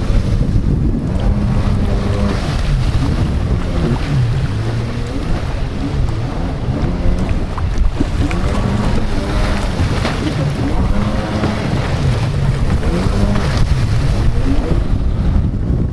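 Wind buffeting the microphone over a watercraft engine, its pitch rising and falling again and again as the throttle changes.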